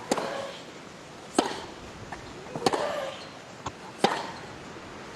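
Tennis rally: a ball struck by rackets four times, about every 1.3 seconds, each shot followed by a player's short grunt, with fainter ticks of the ball bouncing between shots.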